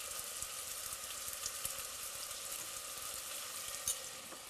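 Onions, garlic, tomatoes and green chilies frying in oil in a stainless steel saucepan, a steady sizzle, with a faint click about four seconds in.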